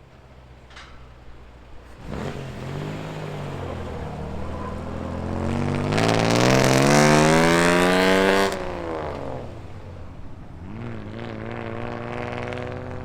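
Muscle car engine and exhaust revving as it leaves: short blips about two seconds in, then a long rising rev that cuts off sharply about two-thirds of the way through, followed by another short blip and steady running near the end.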